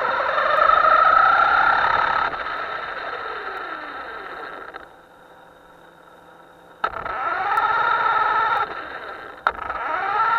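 Small electric motor of a radio-controlled boat whining under throttle, its pitch sliding down as the power comes off. It goes nearly quiet for about two seconds, then spins up sharply and climbs in pitch, cuts briefly and revs up again near the end.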